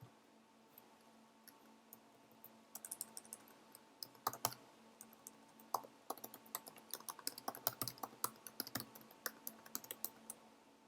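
Typing on a computer keyboard: faint key clicks, a few scattered at first, then a quick, steady run from about three seconds in.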